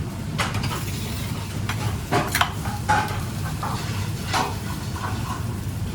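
Kitchen work: a dozen or so short clinks and knocks of utensils and cookware, loudest about two to three seconds in, over a steady low hum.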